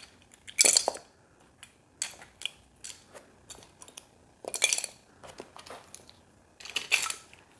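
Small hard building pieces clicking and clinking, in several short clusters with single clicks between, as they are picked through and fitted together by hand.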